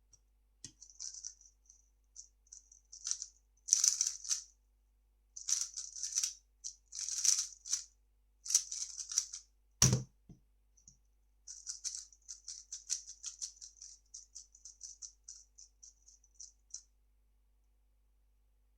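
A 3x3 speedcube being turned fast by hand: bursts of light plastic clicking and rattling. A single heavy thud comes about ten seconds in, then another long run of rapid, even clicking turns.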